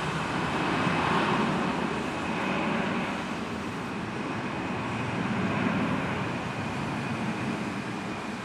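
Airbus A320 twin jet engines at takeoff thrust: a steady rushing roar with a faint high whine over it, slowly fading toward the end.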